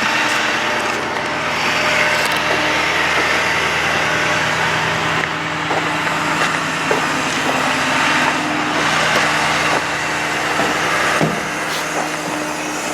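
Ford F-550 bucket truck's engine idling steadily with a hiss over it, and a single knock near the end.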